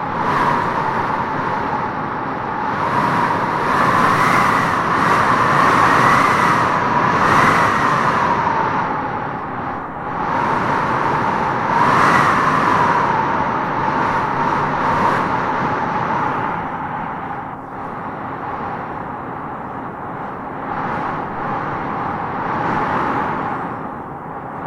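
Wind howling in gusts through trees: a steady rush with a whistling note that rises and strengthens with the stronger gusts, about four to eight seconds in and again about twelve seconds in.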